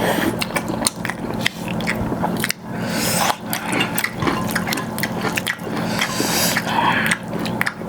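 Close-up eating sounds of chicken gravy and rice: chewing and wet clicks, over a steady low hum.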